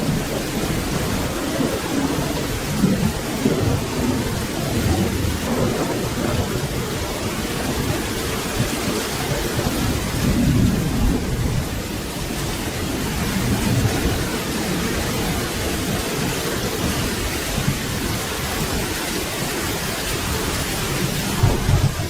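Steady rainfall during a thunderstorm, with low rolling thunder rumbling in swells, strongest about halfway through and again near the end.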